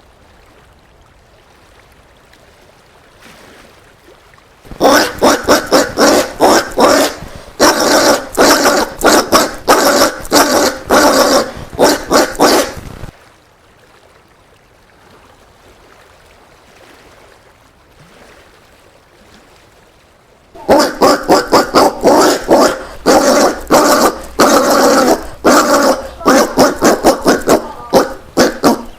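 Collared peccary calling in rapid repeated bursts, several a second. One bout begins about five seconds in and stops about eight seconds later; a second bout starts about twenty-one seconds in and carries on to the end.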